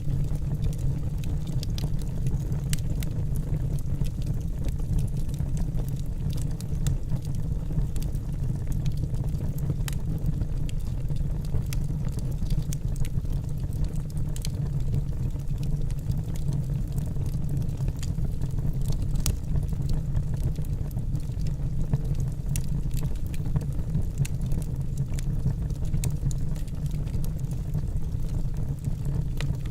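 Wood logs burning in a fireplace: a steady low rumble of the fire with frequent small, irregular crackles and pops.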